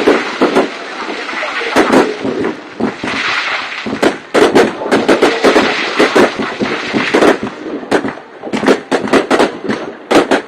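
Fireworks going off: many sharp bangs in quick, irregular succession over a continuous noisy din.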